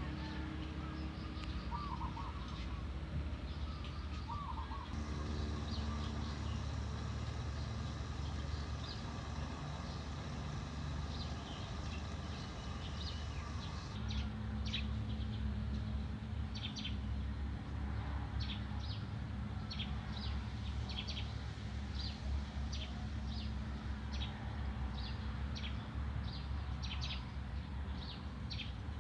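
Small birds chirping and calling in short high notes, coming thick and fast in the second half, over a steady low rumble.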